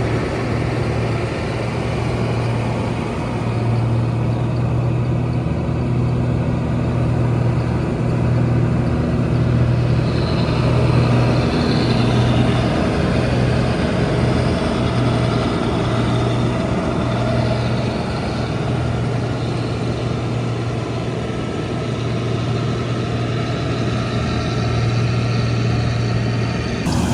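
Combine harvester's diesel engine running steadily at a constant speed, a continuous low drone.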